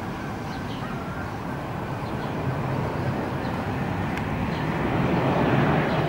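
Steady rumble of passing vehicle noise that swells louder about five seconds in as something passes close.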